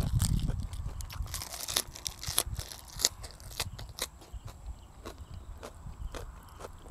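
Close-up crunching and chewing of a mouthful of food with crisp fresh lettuce: a dense run of crisp crunches over the first few seconds, thinning to scattered smaller clicks and chews. A low rumble sounds in the first half second.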